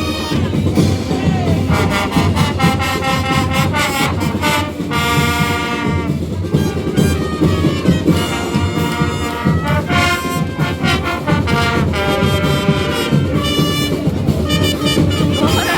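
Marching band playing: brass instruments holding sustained notes over steady drumming.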